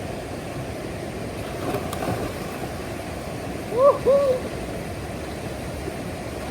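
Steady rush of water from a small waterfall. About four seconds in, two short hoot-like calls, each rising and then falling in pitch, are heard over it.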